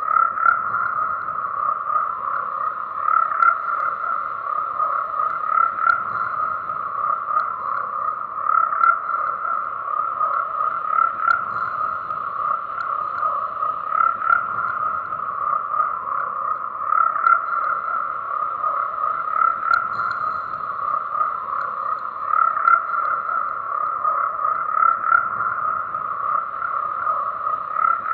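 A dense chorus of frogs croaking without a break, swelling louder every few seconds.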